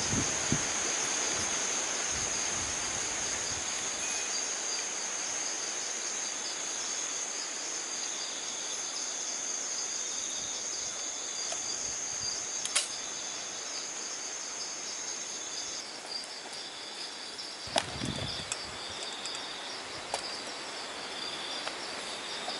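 Dusk chorus of forest insects such as crickets: a steady high trill that cuts off about 16 seconds in, over a rapid pulsing chirp that keeps going. A couple of sharp clicks and a dull knock break in near the middle and towards the end.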